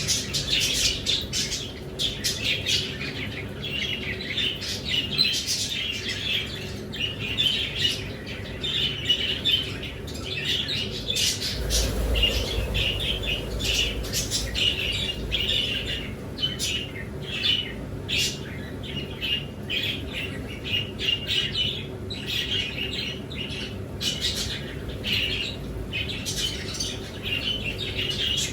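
Many small kept birds chirping and squawking continuously, calls overlapping, with a low rumble for about two seconds near the middle.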